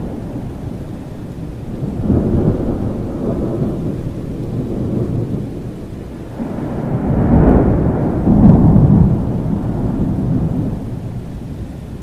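Thunder rumbling over steady rain: one roll swells about two seconds in, and a louder, longer roll builds from about six and a half seconds and fades before the end.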